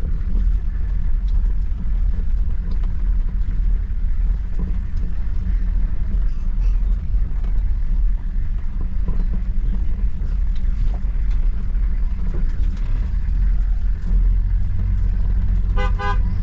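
Steady low engine and road rumble heard from inside a Toyota Land Cruiser's cabin while it drives along the road.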